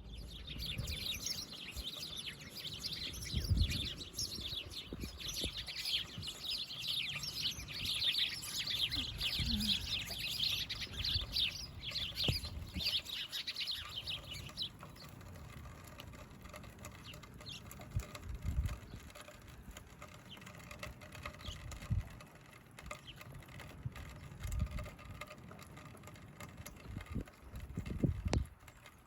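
Small birds chirping in a dense, rapid chatter that stops about halfway through, with scattered low thumps underneath.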